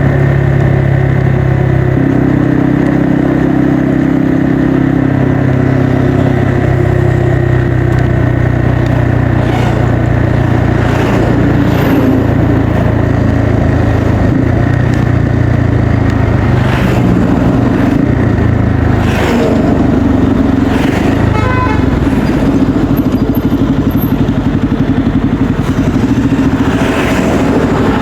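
Bajaj Pulsar N250's single-cylinder engine and exhaust running steadily while riding, the engine note shifting up and down in pitch several times with throttle and gear changes.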